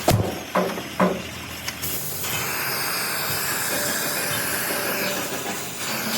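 Two sharp knocks, then from about two seconds in a steady hiss of compressed air.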